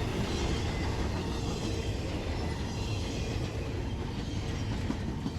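Intermodal freight train rolling past: a steady rumble of wheels on the rails, with no horn or sudden sounds.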